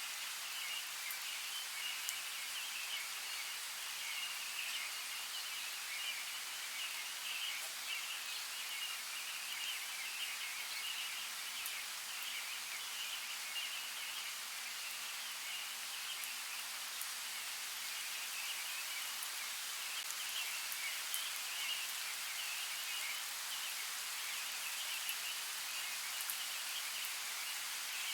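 Steady rain: an even hiss with a fine crackling patter and scattered drop ticks.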